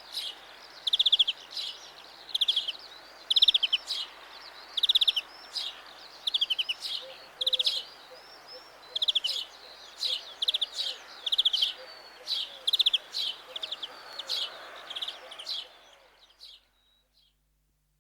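European greenfinch singing: short, rapid trills repeated about every second and a half, with twittering between them. The song stops about sixteen seconds in.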